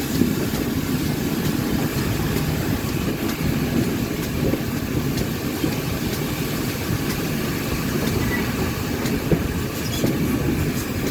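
Steam-hauled train rolling slowly into a station: a steady low rumble with scattered clicks from the wheels.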